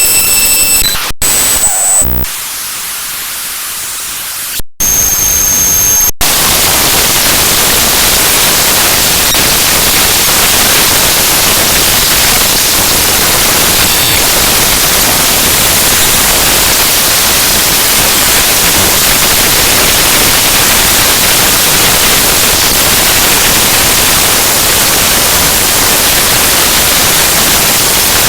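Loud, harsh digital static from the binary data of the Windows kernel file ntoskrnl.exe played back as raw audio. In the first second several steady high tones sound over the noise. Over the next few seconds the noise cuts out briefly and changes texture a few times. From about six seconds in it settles into a dense, even hiss.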